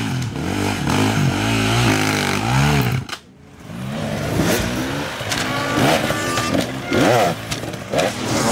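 Hard enduro dirt bike engines revving up and down in repeated throttle blips. The sound drops off suddenly about three seconds in, then the revving picks up again with quick, sharp blips toward the end.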